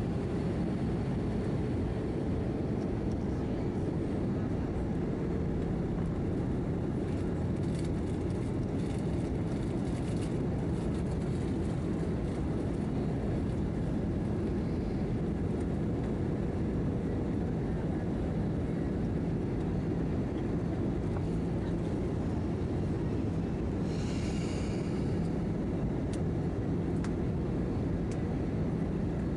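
Airliner cabin noise inside an Airbus A319-111 in flight: the steady drone of its CFM56 engines and the airflow, with faint steady hums underneath. A brief higher-pitched sound comes near the end.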